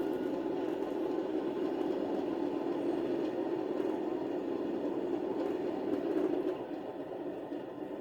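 Sound decoder in an OO gauge Class 37 model locomotive playing the diesel engine idling through the model's small speaker, a steady rumble that eases somewhat about six and a half seconds in.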